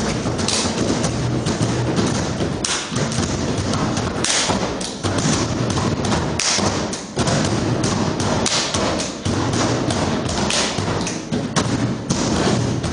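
Fast rhythmic percussion made of knocking and tapping strokes, played in a dense unbroken groove with a sharper, brighter accent hit about every two seconds.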